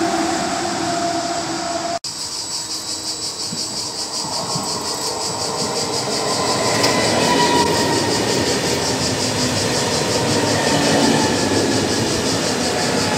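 Italo AGV 575 high-speed electric train running through a station at speed: a steady rush of wheels on rail with a faint high whine over it. It grows louder over the first few seconds as the train draws level and then holds. About two seconds in, a sudden break cuts off a different train's sound.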